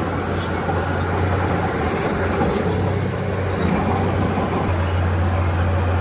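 Komatsu D31P crawler bulldozer's diesel engine running steadily under work, with a constant low hum.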